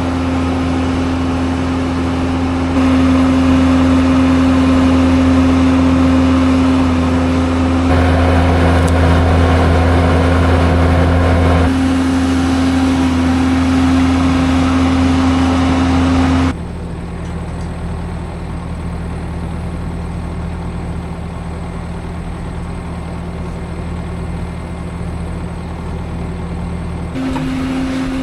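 Engine of a farm machine running at a steady speed, stepping up louder about 3 s in and dropping suddenly to a lower, quieter note about 16 s in, then picking up again near the end.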